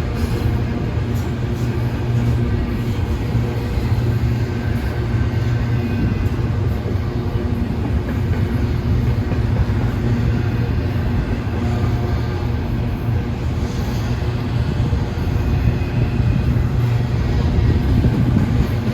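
Freight train running past: a steady, loud rumble with faint steady tones over it.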